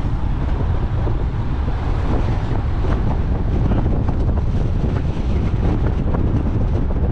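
Strong wind buffeting the microphone: a loud, rough, steady rumble.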